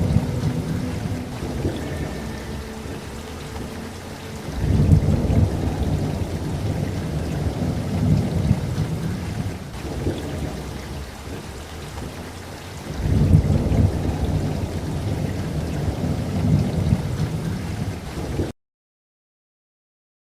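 Steady rain with two long, low rolls of thunder, one starting about four seconds in and another about thirteen seconds in. The sound cuts off to dead silence for the last two seconds.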